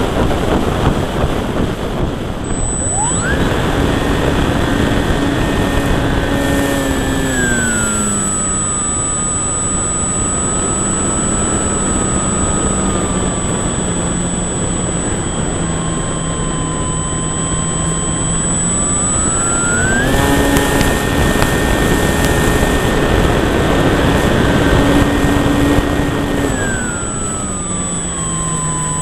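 Electric motor and propeller of a Durafly Cessna 182 RC model plane, heard from a camera on its cowl over rushing wind. The whine rises to full throttle about three seconds in, drops back around seven seconds, climbs again about twenty seconds in and eases off near the end.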